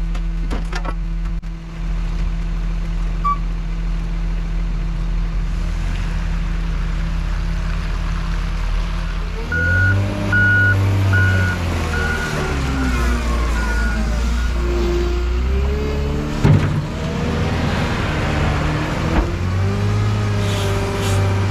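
Heavy diesel engine running steadily, then revving up and down as the machine works, while a reverse alarm beeps a little under twice a second. A single sharp clank comes a little past the middle, and the beeping starts again near the end.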